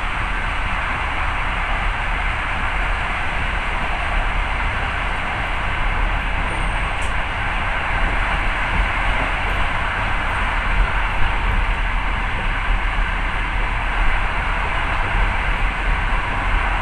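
Passenger train running at speed, heard from inside the carriage: a steady rush and rumble of wheels on rails with no clear rhythm.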